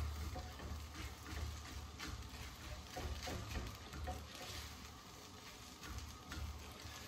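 Matzo brei of egg-coated matzo pieces frying in a nonstick skillet with a faint sizzle, while a silicone spatula scrapes and taps through it, stirring and breaking it into small pieces.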